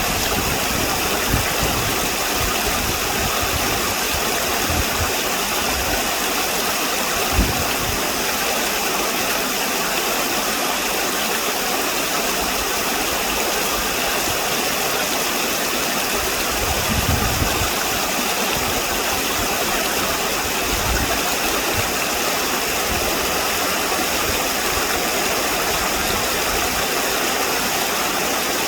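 Steady rushing of flowing stream water, even and unbroken, with a few brief low bumps.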